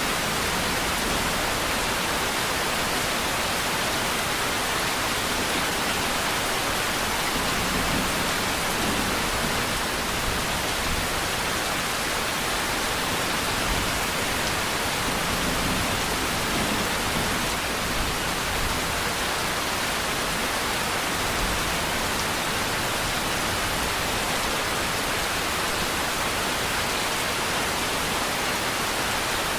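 Steady rain, an even unbroken hiss of falling water with no separate drops standing out and a faint low rumble swelling now and then.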